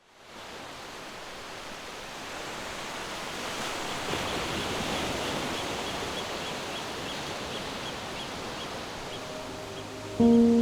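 Steady rushing of waves fading in from silence and slowly growing, with faint repeated high chirps about twice a second through the middle. Sustained low music notes come in near the end.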